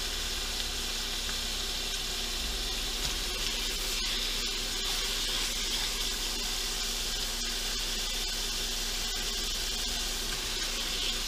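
Boneless chicken thighs sizzling in butter and sliced onion in a stainless steel pan on an induction cooktop at its hottest sear setting, a steady frying hiss as pieces are laid into the hot pan.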